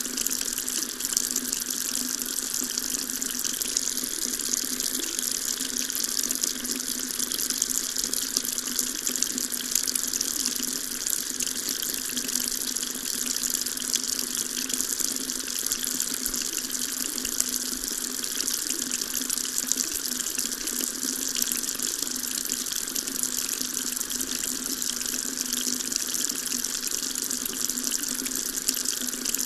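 Water tap running in a steady stream, an even splashing hiss that neither starts nor stops.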